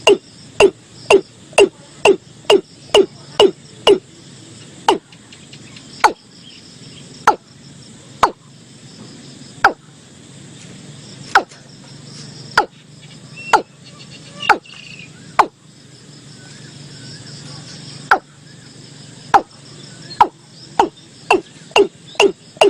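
Male watercock calling: a run of loud, hollow, pitch-dropping notes. They come about two a second at first, slow to single notes a second or two apart, and quicken again near the end. It is a repeated call series of the kind used to lure the birds in.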